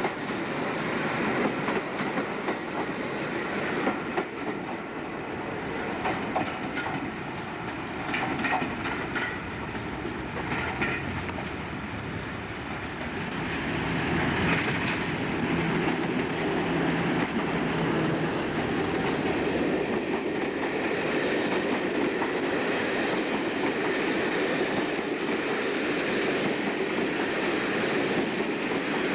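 Passenger trains on a station line: coaches roll past at close range, their wheels clicking over rail joints. About halfway through, a diesel-hauled train approaches, and its coaches run by with a steadier, louder rumble.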